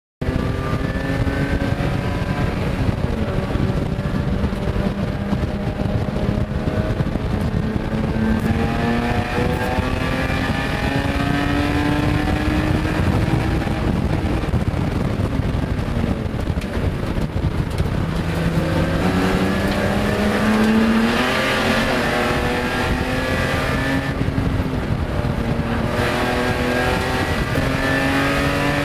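BMW E30 race car's 2.5-litre straight-six heard from inside the cabin under hard acceleration. The engine's pitch climbs slowly through long pulls and falls back at each upshift. The sound starts suddenly right at the beginning.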